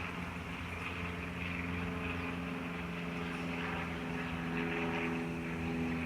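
An engine running steadily: a low, even hum that holds one pitch throughout.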